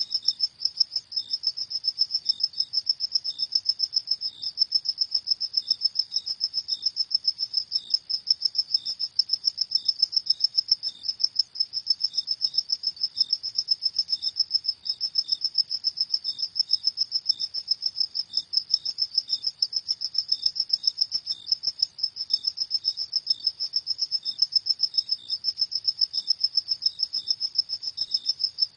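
Crickets chirping at night: a steady, rapid, high-pitched pulsing chorus, with a second, lower chirp repeating about once a second.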